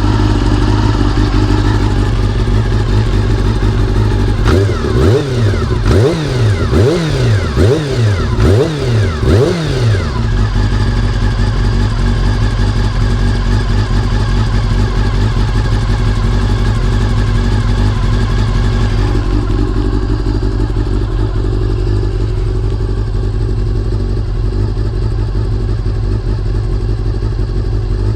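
Honda CBR400RR (NC29) inline-four engine blipped several times, revs rising and falling quickly, then settling to a steady idle about ten seconds in. It runs on a CBR600F fuel pump fitted to cure an abnormal fuel pump noise.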